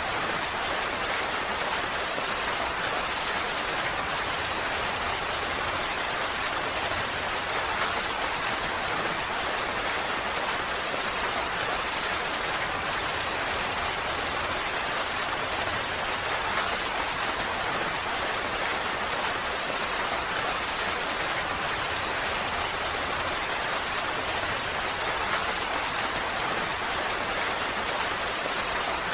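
Steady rain falling, an even hiss of drops with a few faint individual patters.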